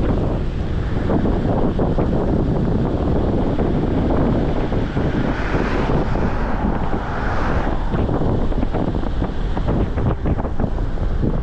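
Strong wind buffeting the microphone while riding an e-bike, a loud steady rumble with rapid gusty fluttering. A brighter rushing gust swells between about five and eight seconds in.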